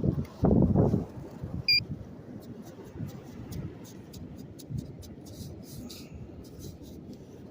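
Wind buffeting the microphone in loud gusts, with one short electronic beep from the metal detector about two seconds in. A run of faint quick clicks and scratches follows over the steady wind rumble.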